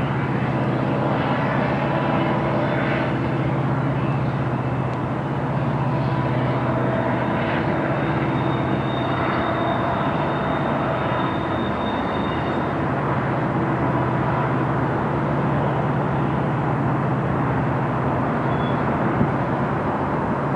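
Double-stack intermodal container train's well cars rolling past: a steady rumble of steel wheels on rail with a constant low hum. A thin, faint high squeal rings for a few seconds midway.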